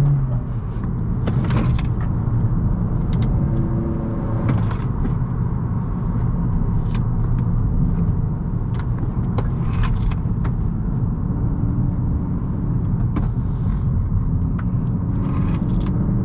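2018 Honda Accord 1.5T Sport's turbocharged four-cylinder engine and tyre noise while driven hard through tight curves, the engine pitch rising and falling several times with throttle and braking. Short sharp clicks and ticks are scattered throughout.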